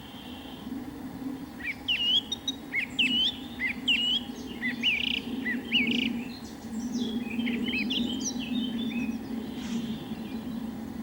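Several birds calling: a busy run of short, hooked chirps that starts about two seconds in and thins out near the end, over a steady low background drone.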